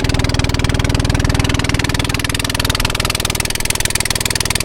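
A motor engine running steadily close to the microphone, with a fast, even pulsing beat.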